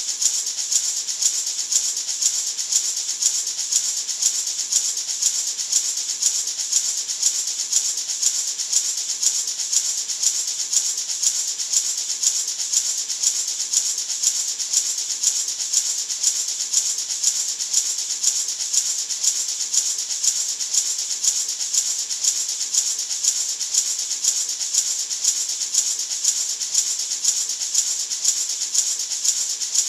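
Natural gourd maraca shaken continuously in a steady, even rhythm, its seeds giving a bright hissing rattle used as white noise.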